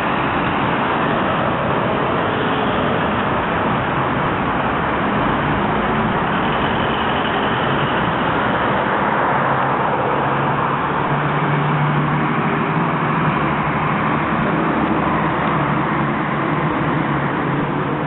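Zagreb tram and street traffic: steady, unbroken running noise, with a low hum that comes up for about two seconds near the middle.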